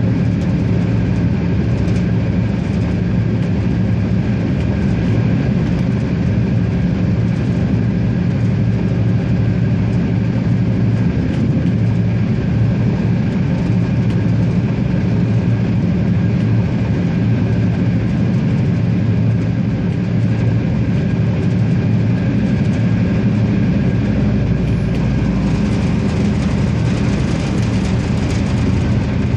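Regiosprinter diesel railcar running along the line: a steady engine drone mixed with rolling wheel noise, with more low rumble and hiss coming in near the end.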